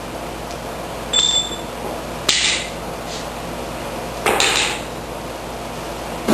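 Three hammer blows on metal about a second apart, the first leaving a brief high ringing ping. The hammering works the snowblower's auger and secondary impeller out of their housing.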